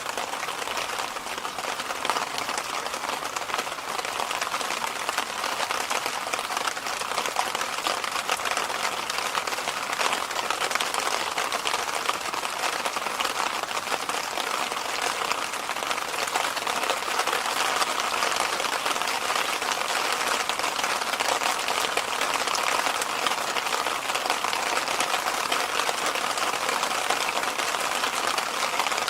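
Electric fan running steadily: a constant airy noise with no change in speed.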